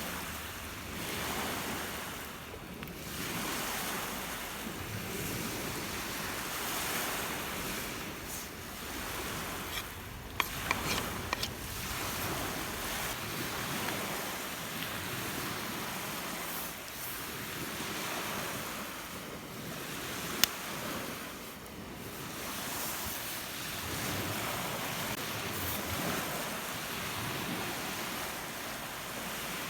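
Rough lake waves breaking on the shore in wind, a steady rushing noise that swells and eases. There is a cluster of short sharp clicks about a third of the way in and one more about two-thirds through.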